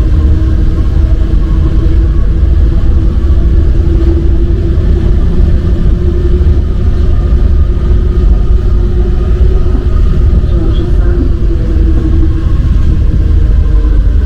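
MP 05 rubber-tyred metro train running between stations: a loud, steady low rumble with a constant hum above it.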